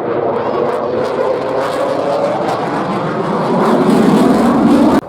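Jet noise from a Eurofighter Typhoon's two EJ200 engines during a display pass, growing louder about three and a half seconds in, then cutting off suddenly near the end.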